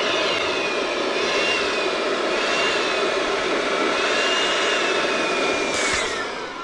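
Electric balloon inflator running, a steady motor-driven blowing with a wavering whistle, as it fills a latex balloon. A click sounds near the end as the motor winds down.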